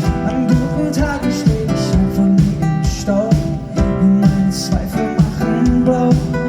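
Live acoustic pop band playing, led by strummed acoustic guitar in a steady rhythm.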